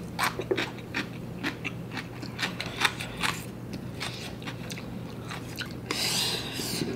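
Close-miked eating sounds: a person chewing and crunching food, with many short crisp clicks of the mouth and teeth, and a short hiss near the end.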